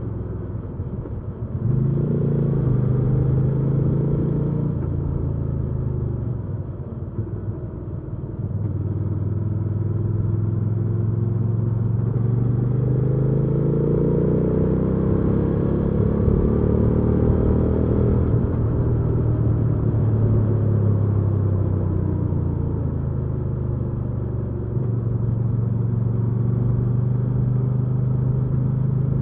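Hyosung GV300S Aquila 300 V-twin motorcycle engine under way. It eases off twice, then its note rises in a long pull as it accelerates, and it settles into steady cruising near the end.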